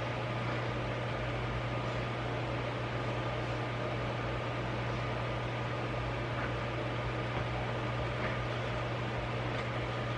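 Steady low hum with an even hiss, like a running appliance or fan, with a few faint light clicks.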